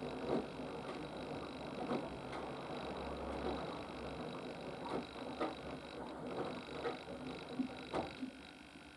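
Haier HW120 front-loading washing machine's drum tumbling wet laundry on a cotton 40 °C wash: repeated water swishes and soft thumps as the drum turns, stopping about eight seconds in.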